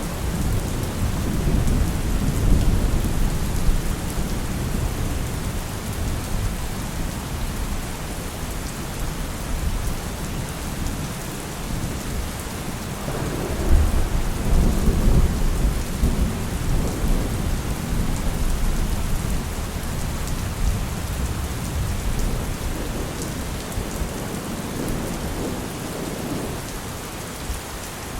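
Heavy rain falling steadily with rolling thunder rumbling underneath; the thunder swells in a strong peal about thirteen seconds in and fades toward the end.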